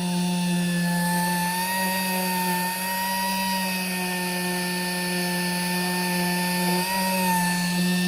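Air-powered sanding tool running at a steady speed, a continuous whine with a low hum underneath, briefly dipping in speed about seven seconds in.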